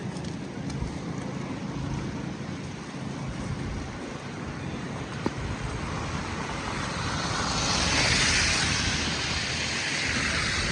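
City street noise in a snowstorm: a steady low rumble, with a rushing hiss that swells about seven seconds in and fades near the end.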